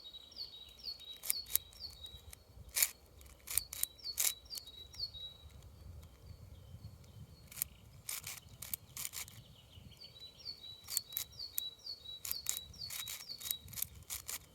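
Plastic layers of a 6x6 Rubik's cube clicking as it is turned, in single clicks and short quick runs. A small bird sings a series of quick repeated high down-slurred notes at the start and again from about ten seconds in.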